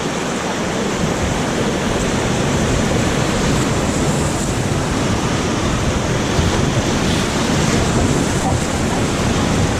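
Whitewater rapids rushing loudly and steadily around the raft, with wind buffeting the head-mounted GoPro's microphone and adding a low rumble from about the start.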